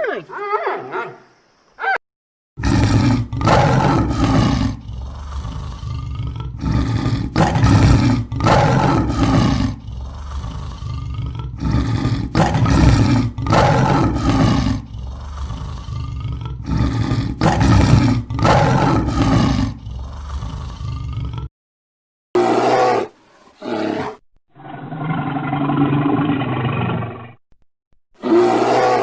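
A large animal roaring repeatedly, each roar deep and rough, with short breaks between them. About three quarters of the way through, a different recording takes over, with shorter roars and one longer, steady call.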